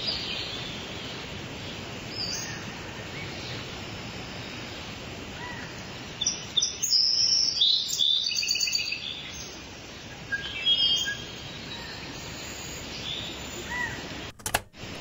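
Birds chirping and calling over a steady outdoor background hiss, with a flurry of quick high chirps about six to nine seconds in and a few more shortly after.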